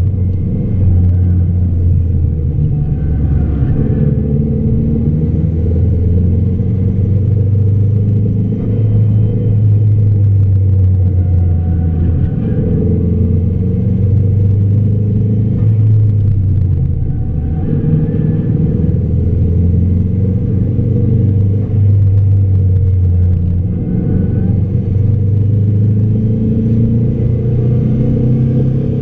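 Car engine heard from inside the cabin while being driven hard on a track, its note rising and falling every few seconds with acceleration, gear changes and lifts for corners.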